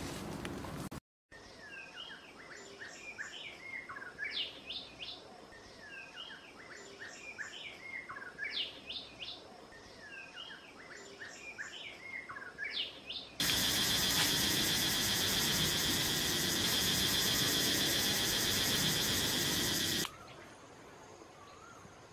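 A bird sings the same quick warbling phrase three times, about four seconds apart. Then a loud, steady buzzing insect drone starts abruptly, runs about seven seconds and cuts off just as suddenly.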